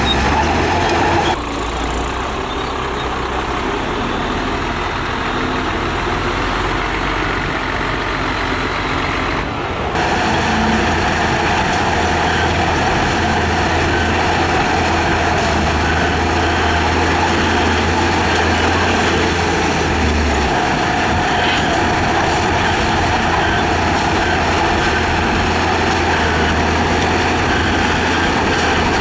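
Heavy road-construction machinery running with a steady engine drone. The sound changes abruptly twice, about a second in and about ten seconds in.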